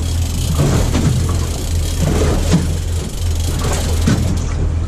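Boat motor running steadily at trolling speed, a constant low hum, under rushing wind and choppy water noise.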